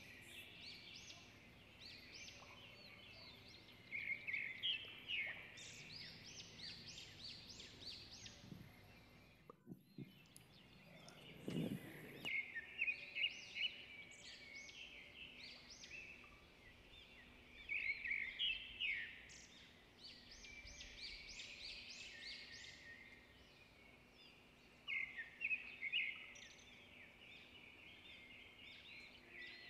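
Birds chirping and chattering faintly in short bouts of rapid chirps every six seconds or so, with a faint steady hum beneath.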